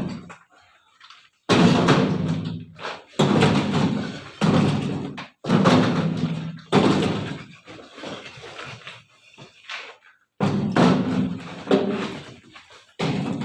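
A series of heavy thuds and slams, roughly one every second and a half, each starting suddenly and fading out with a brief low ringing.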